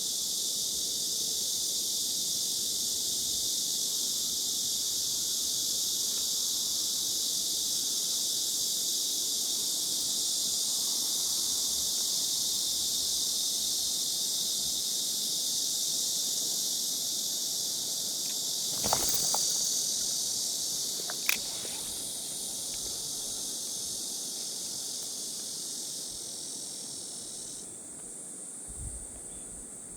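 Summer insect chorus: a steady, high, shrill droning that thins out near the end. Two short sharp clicks, about two seconds apart, stand out about two-thirds of the way through.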